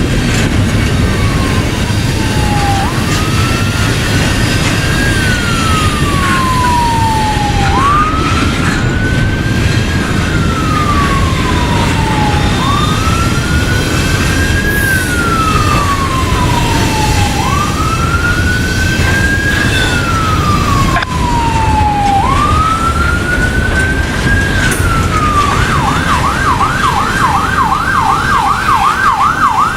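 Emergency vehicle siren sounding a wail, rising and falling about every five seconds, then switching to a fast yelp about three cycles a second near the end. A steady low rumble runs underneath.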